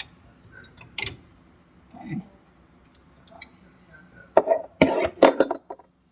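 Hand tools and small parts clinking and rattling as they are handled, with scattered light knocks, then a louder burst of rattling clatter about four and a half seconds in.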